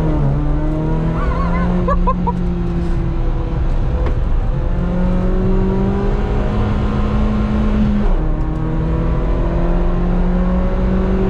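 Car engine on a circuit lap, heard from inside the cabin: the revs climb slowly and steadily under load, and the note dips twice, about four and about eight seconds in, before climbing again.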